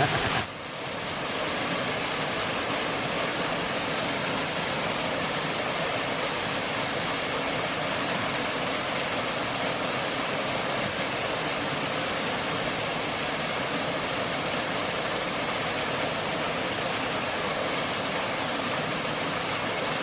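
Waterfall pouring steadily into a pool: an even, unbroken rush of water that settles in after a brief dip about half a second in.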